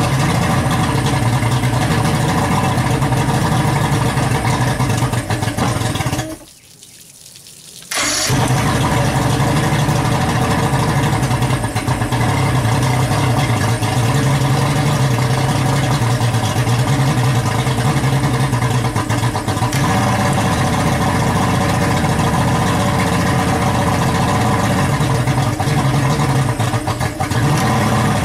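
Johnson J150 V6 two-stroke outboard running steadily. It drops away for a moment about six seconds in and picks up again sharply. The carburetors are suspected to be faulty after ten years of sitting.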